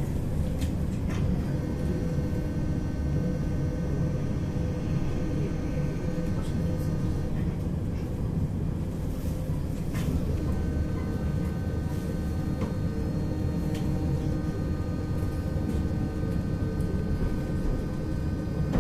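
Tram running along the line: a steady low rumble of the car on the rails, with thin steady whining tones that set in about a second in and again around ten seconds in, and a few faint clicks.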